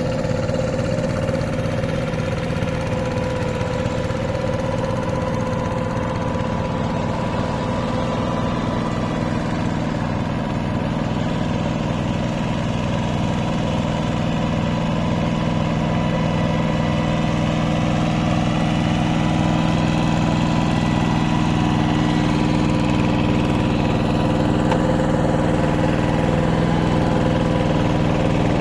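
Hand tractor engine running steadily, growing a little louder in the second half.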